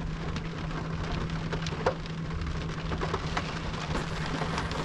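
Rain falling on a car's roof and windshield, heard from inside the cabin: a steady patter with scattered sharper drop taps, over a steady low hum.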